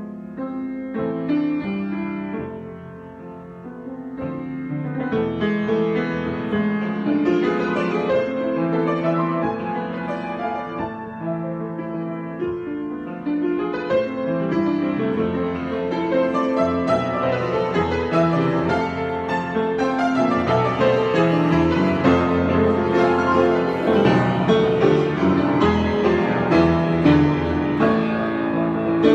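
Solo piano improvisation, soft at first and building in loudness and density of notes from about four seconds in.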